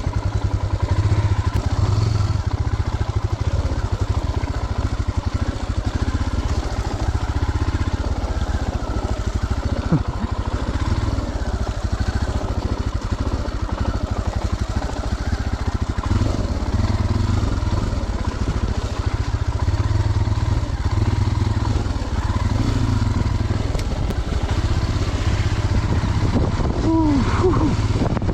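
Royal Enfield Himalayan's single-cylinder engine running steadily as the motorcycle is ridden, a low, even engine note throughout. A brief voice sound comes near the end.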